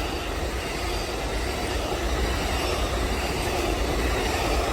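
Amtrak Coast Starlight passenger train passing, a steady rumble of wheels on the rails with no horn.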